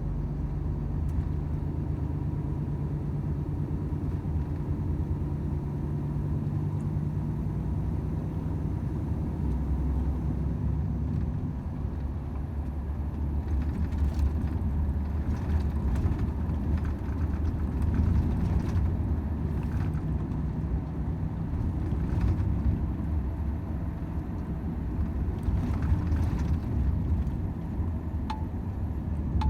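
Volvo FH 500 truck's 13-litre six-cylinder diesel engine running at a steady pace under a low road rumble, with a few short knocks in the second half.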